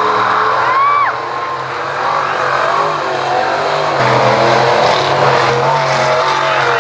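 Mega mud truck engine running hard, its pitch rising and falling as it is revved, with a short whine that climbs and drops about a second in.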